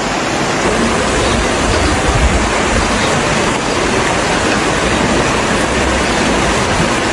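Floodwater rushing, a loud steady noise with a low rumble.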